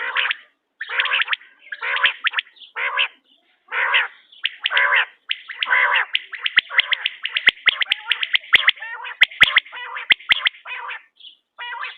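Quail calling over and over in short, harsh bursts, at first about one a second. About halfway through the calls crowd into a fast run of rapid notes with sharp clicks among them.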